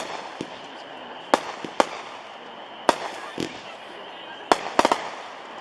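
Biggs 'Red, White, Boom' 25-shot 200-gram consumer repeater cake firing: sharp bangs spaced about a second apart, ending with three in quick succession near the end.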